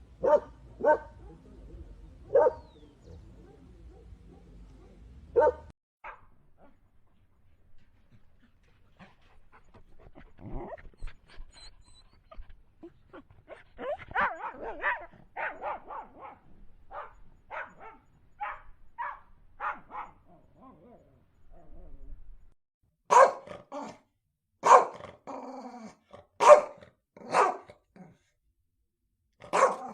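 Dogs barking: a few loud single barks spaced a second or more apart, then a quieter stretch of quicker, closer-spaced barking, then more loud single barks near the end.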